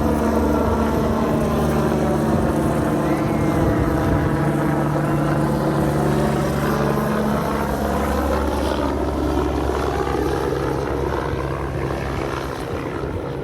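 Steady engine drone of a passing motorised craft, with a low hum whose tone colour sweeps slowly as it goes by.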